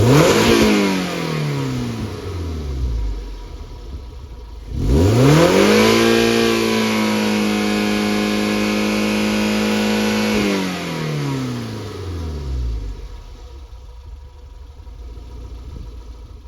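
Toyota 1ZZ-FE 1.8-litre inline-four engine from a 2003 MR-S being revved: a quick rev right at the start that falls back to idle, then about five seconds in it climbs to a held high speed for about five seconds before dropping back to idle.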